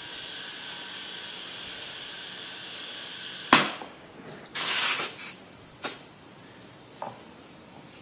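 Steady hiss of compressed air that cuts off suddenly with a sharp metallic clank about three and a half seconds in. A short blast of air and a few lighter knocks follow.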